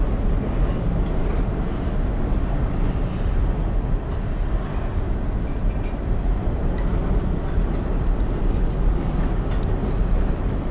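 Train crossing the bridge directly overhead: a steady, heavy low rumble with no break.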